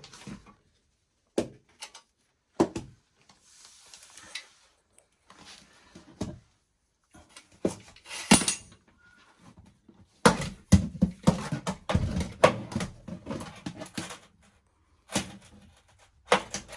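Scattered knocks, clicks and metal clatter of gas water heater parts being handled and fitted back into place, with a busier stretch of clattering about two-thirds of the way in.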